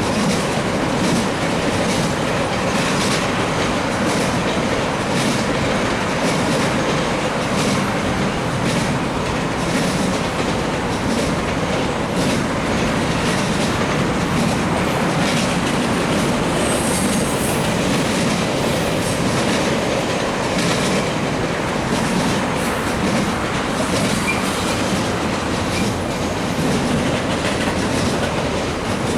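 Freight train of double-stacked intermodal container cars rolling past, a steady roar of wheels on rail with repeated clicks as the wheels cross rail joints, and faint flange squeal.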